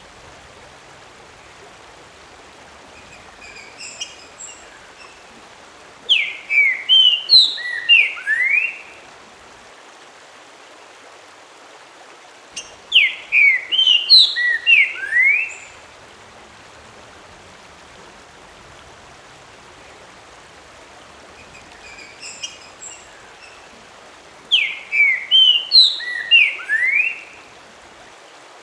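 A songbird singing the same short phrase three times, each a quick run of clear whistled notes sliding up and down, about three seconds long, with a few softer notes before the first and last phrases. A steady faint hiss lies underneath.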